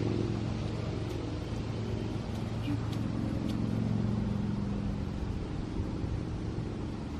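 Steady low drone of a running motor, swelling slightly around the middle.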